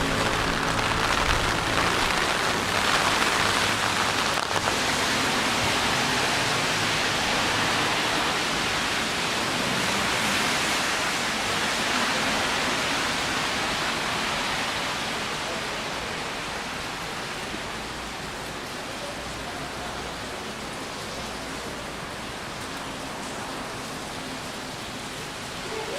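Steady rain falling, an even hiss with no distinct drops. It eases off to a softer level about halfway through.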